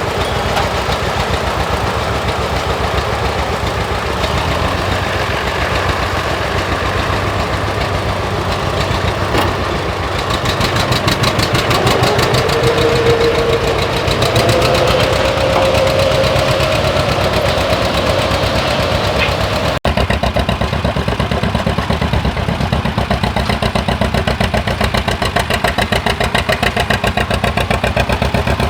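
An engine running steadily with an even, rapid firing beat. A faint whine glides up and down around the middle, and the sound changes abruptly about twenty seconds in, with engine running continuing after.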